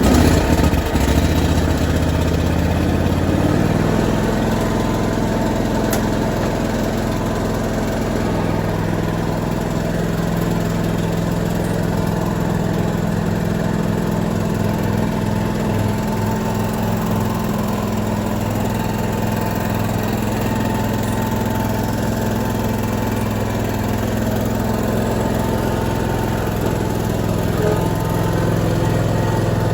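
Lawn mower engine catching at the very start, climbing in pitch over the first few seconds, then running steadily at a constant speed.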